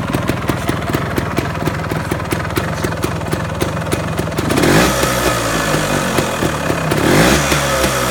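Honda TLM220R trials motorcycle's single-cylinder two-stroke engine idling with a steady pulse, blipped up in revs briefly twice, about halfway through and near the end.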